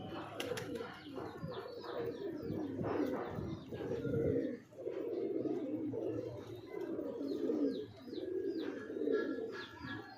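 Pigeons cooing, a steady run of low, repeated coo phrases, with small birds chirping high above, the chirps coming more often near the end.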